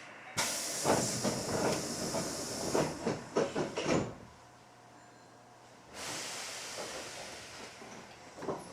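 Compressed air hissing from the pneumatic equipment of a Hankyu 7300-series train standing at a station. It starts suddenly with clattering mixed in, stops after about three and a half seconds, and a second steadier hiss follows about two seconds later.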